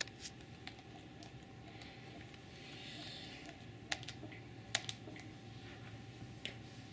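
A few light, scattered clicks and taps at irregular intervals, with a soft rustle about three seconds in.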